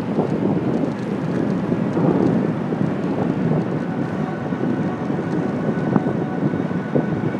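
Steady wind buffeting and rattling road rumble picked up by a phone microphone mounted on a moving bicycle's handlebars.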